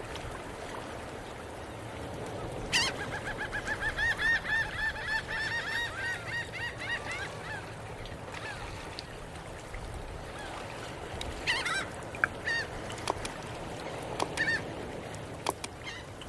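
A bird calling: a rapid run of honking calls, about four a second for several seconds, then a few single calls later on, over a steady low background rush.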